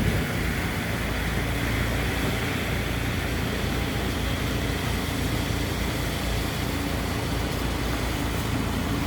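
Steady low rumble of vehicle engines and traffic, with a faint constant hum.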